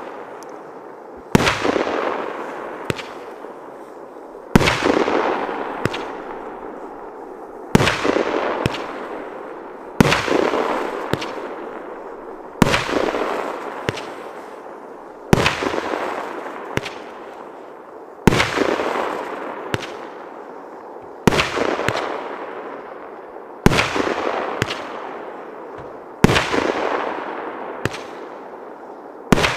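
Multi-shot firework cake 'Весёлая планета' СХ430016 firing about eleven shots, one every two and a half to three seconds. Each is a sharp bang followed by a crackle that fades over a couple of seconds: brocade crown bursts with crackling clouds.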